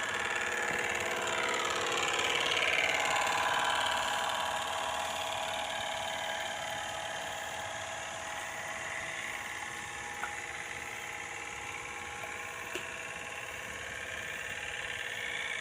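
A motor running steadily with a whine that wavers in pitch for the first few seconds, then holds even; two faint clicks near the end.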